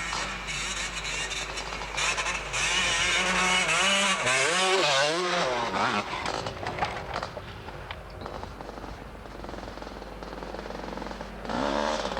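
Motocross motorcycle engines revving up and down as the bikes ride past, strongest in the first half and rising again near the end.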